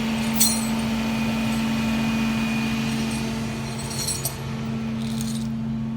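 An engine idling steadily, with a sharp metallic click about half a second in and a few light metallic clinks around four to five seconds in.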